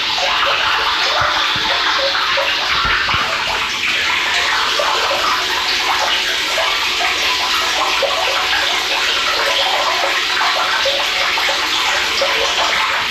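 Water running steadily into a water storage tank through its float-valve inlet as the tank fills, with continuous splashing and bubbling.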